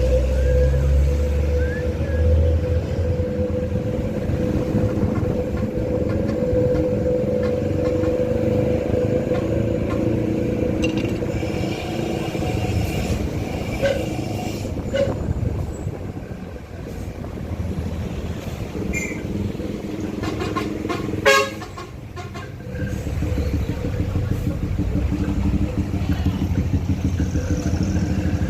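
Vehicle engine running steadily with a held whining tone, easing off in the middle and building again near the end; a single sharp knock about three-quarters of the way through.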